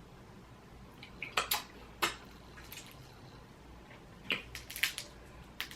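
Boiled crawfish shells being cracked and peeled by hand: a scattering of sharp cracks and clicks, some in quick pairs, at low level.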